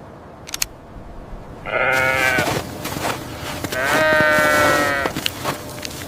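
An animal bleating twice, each call about a second long, with a couple of faint clicks before the first.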